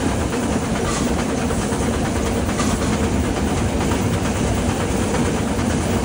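Steam train running along the track: a steady rumble and rattle of wheels on the rails.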